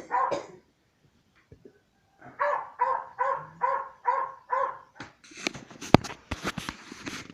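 A dog barking in quick, evenly spaced runs: two barks at the start, then six or seven more about three a second. After the barking stops there is a stretch of rustling and clicking, with one sharp click about six seconds in.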